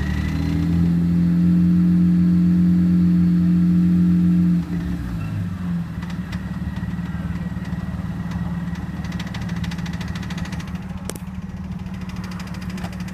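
A supercharged BMW E46 ZHP's 3.0-litre inline-six, with an ESS TS1 supercharger, running. It is held at raised revs with a faint high whine, then drops back to idle about four and a half seconds in. A fast, even rattling or knocking comes through at idle in the second half.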